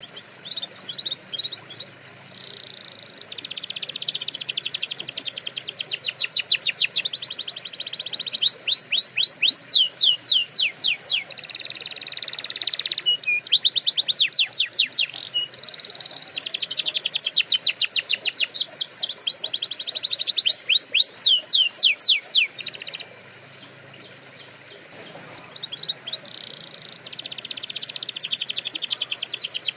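Domestic canary singing: fast trills of rapidly repeated notes, switching to a new trill every few seconds. There is a short lull about three-quarters of the way through, then the song starts again.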